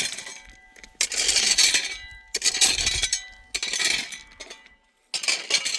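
Repeated clinking, scraping strokes, about one a second, each starting sharply and fading out.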